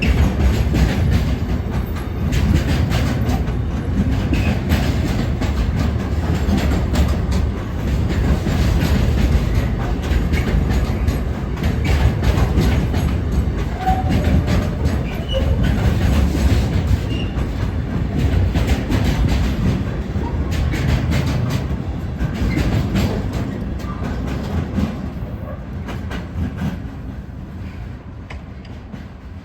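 Freight train wagons rolling past at a level crossing, wheels clattering over the rail joints in a continuous rumble that fades away over the last few seconds as the train moves off.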